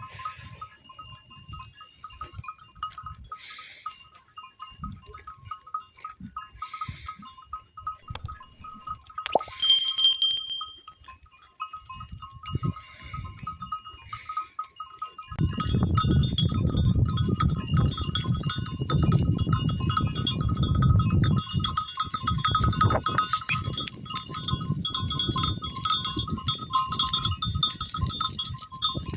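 Flock of goats bleating, with a brief clear high ring just before the middle; a low rumbling noise starts about halfway through and continues.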